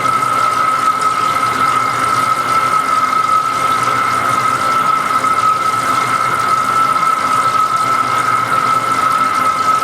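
A lathe turning a large pot-bearing part, giving off a steady high-pitched squeal over an even hiss, with no change throughout.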